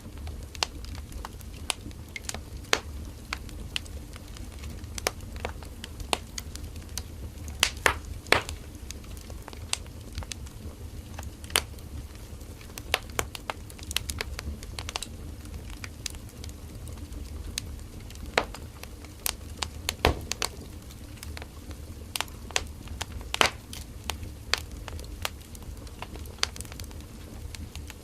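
Firewood burning in a campfire: irregular sharp crackles and pops, some louder than the rest, over a steady low rumble of the flames.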